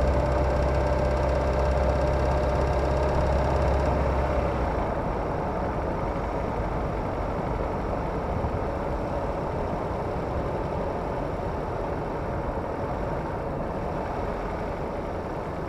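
Kia Ceed's G4FG 1.6-litre four-cylinder petrol engine running, heard from under the bonnet. A strong low drone eases off about four to five seconds in, and the engine then settles into a quieter, steady running.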